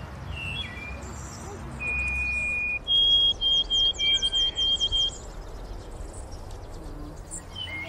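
A songbird singing: one held whistle about two seconds in, then a quick run of about eight short whistled notes, with small chirps before and after, over a low steady rumble.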